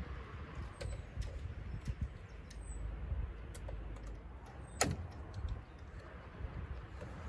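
Scattered light clicks and taps from gutter and downspout parts being handled and fitted, with one sharp click about five seconds in. Wind rumbles on the microphone, and there are a few faint high chirps.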